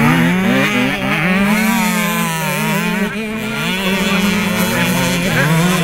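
Several 65 cc two-stroke motocross bikes running at once, their engine pitches rising and falling as the riders rev and shift.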